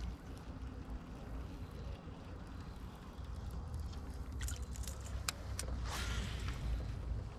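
Low rumble and water noise around a fishing kayak, with a handful of sharp clicks and knocks between about four and a half and six and a half seconds in.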